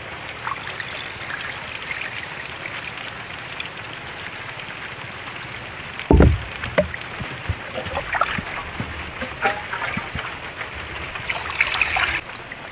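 Water trickling and splashing, with a heavy low thump about six seconds in, then smaller splashes and clicks and a short burst of splashing near the end.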